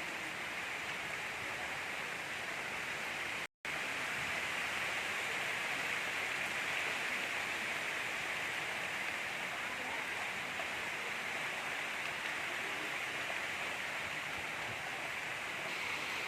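Steady gentle rain falling: an even hiss with no distinct drops or thunder. The sound cuts out completely for a split second about three and a half seconds in.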